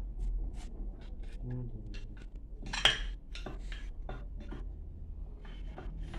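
Metal tools and pump parts clinking and tapping against each other, a string of small knocks with one sharper, ringing strike about three seconds in, over a low steady hum.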